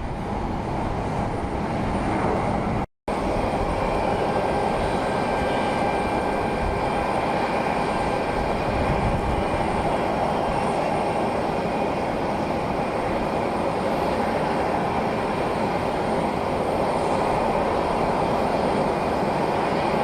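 Steady jet engine noise from an airliner at the airport, a constant rumble with a faint whine on top. It cuts out for a moment about three seconds in.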